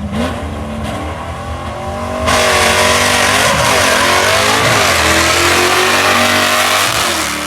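Drag car engine idling at the start line, then launching hard about two seconds in, running at full throttle with its pitch rising and dropping through the gear shifts, and easing off near the end as the car pulls away down the track.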